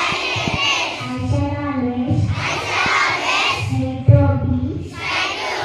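A group of children singing together, held notes alternating with louder passages.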